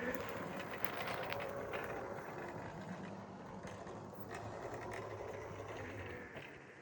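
A vehicle driving, coming up quickly at the start with a low steady hum and fading near the end.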